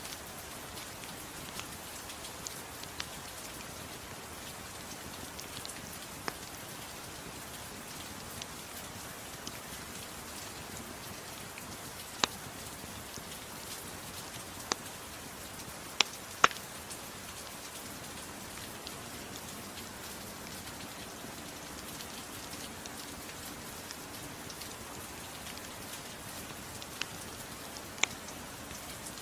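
Steady, gentle rain, with a handful of sharp pops from a crackling wood fire, loudest near the middle and near the end.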